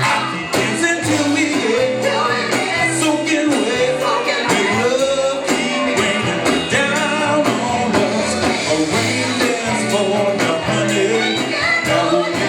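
Live band music playing the song, with a lead melody that bends and glides in pitch over a steady bass line.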